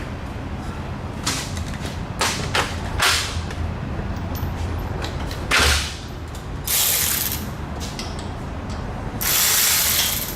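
Mechanic's hand tools clicking and clanking against metal, with a louder knock about halfway through. Two hissing bursts follow, a short one and then a longer one near the end, over a steady low hum.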